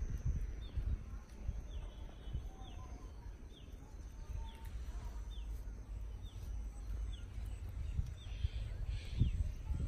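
A bird calling over and over with short, thin falling chirps about once a second, over an uneven low rumble.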